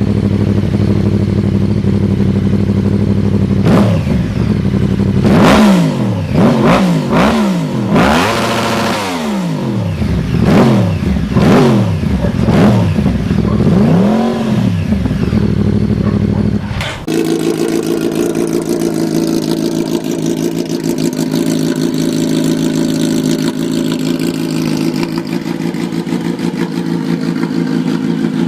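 Yamaha R1 inline-four engine idling, then revved in a string of quick blips, each rising and falling back. Near the end of the revving there is an abrupt cut to another R1 running at a steady, higher-pitched idle.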